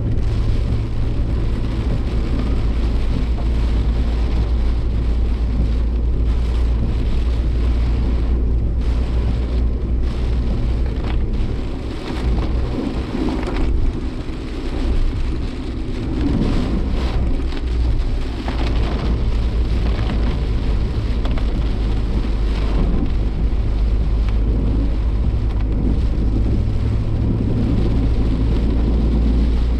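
Cabin noise of a Suzuki Jimny Sierra's 1.5-litre four-cylinder driving in typhoon rain: a steady low engine and road drone, with rain beating on the body. The drone eases briefly about halfway through.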